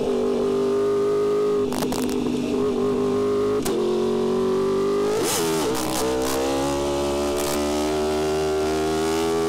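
Yamaha R1M's crossplane inline-four engine running at steady high revs under way, with a brief dip and recovery in pitch about five seconds in and a few short sharp cracks.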